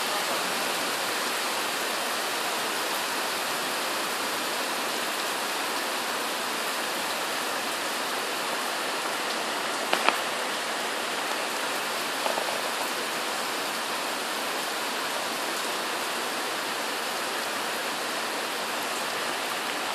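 Heavy tropical-storm rain pouring down in a steady, even hiss, with one sharp tap about halfway through.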